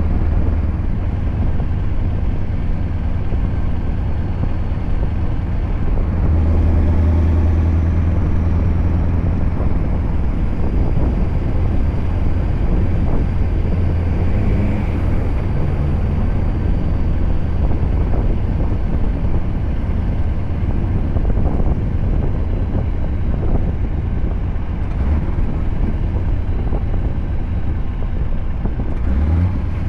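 Scania R580's V8 diesel engine running through an 8-inch straight-pipe exhaust, a steady low drone, with a faint thin high whine above it.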